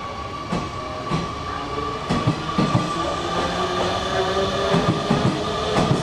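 Electric commuter train moving along the platform, getting louder, with wheels knocking over rail joints at irregular intervals and a motor whine whose pitch steps upward.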